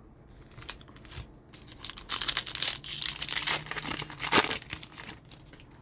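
A foil trading-card pack wrapper being torn open and crinkled in the hands, a run of crackly tearing, loudest in the middle.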